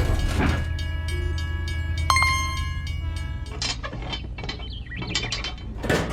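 A small machine's mechanism running with a steady low hum and a high whine. Then, from a little past halfway, a run of irregular clicks and ticks.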